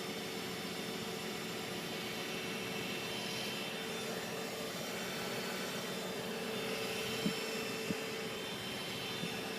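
Steady whining hum from an Infiniti G35: one constant tone over a hiss, of a cause the owner cannot identify. Two short clicks come near the end.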